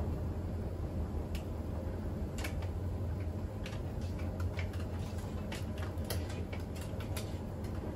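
Siemens iQ700 WG56B2090 front-loading washing machine running, with a steady low hum and irregular light clicks and ticks, several a second.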